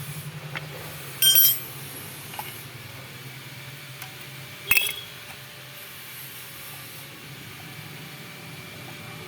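Two sharp metal clinks, one about a second in and a second just before the middle, each ringing briefly, over a steady low hum.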